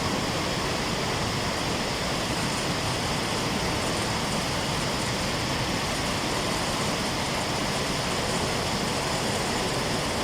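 Ban Gioc waterfall's falling water rushing in a steady, unbroken wash of noise.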